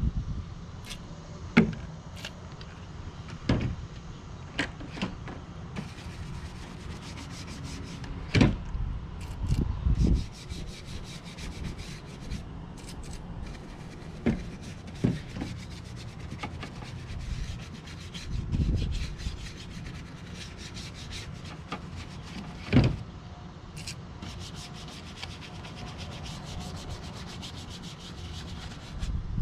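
Detailing brush scrubbing engine-bay surfaces in quick back-and-forth strokes, with a few sharp knocks as the brush or hand strikes parts.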